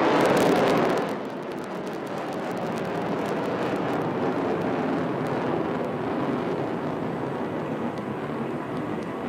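Rafale fighter jet's twin turbofan engines heard just after its low pass and pull-up: loud jet noise for the first second, then dropping to a steady, lower rumble as the jet climbs away.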